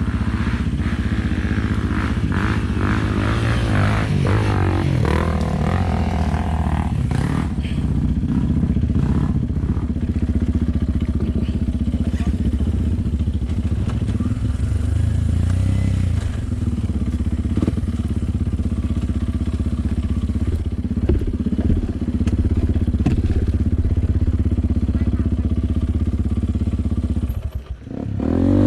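Off-road motorcycle engine running steadily, with a short drop-out near the end followed by a rise in revs.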